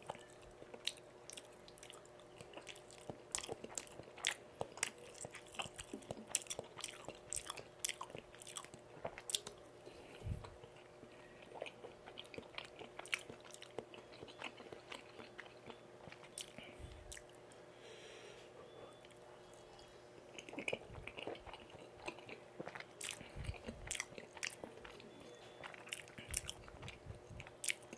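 Close-miked chewing of Korean food, tteokbokki and pan-fried jeon, a dense run of sharp mouth clicks that eases off for a few seconds midway.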